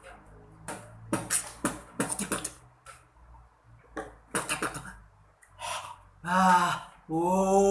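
Beatboxing: a string of sharp percussive mouth clicks and hissing hits, then from about six seconds in a held, pitched vocal tone.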